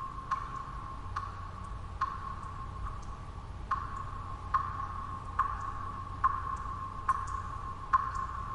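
Water drops falling one at a time, a short ringing plink about once a second at slightly uneven intervals, over a steady low white-noise rumble.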